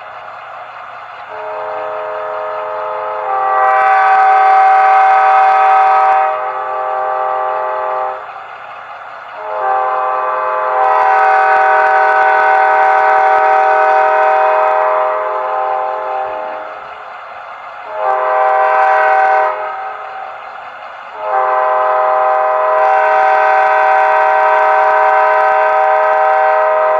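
Bachmann HO scale Charger model locomotive's sound decoder playing a multi-chime diesel horn through its small onboard speaker. It sounds the grade crossing signal: long, long, short, long, and it is pretty loud.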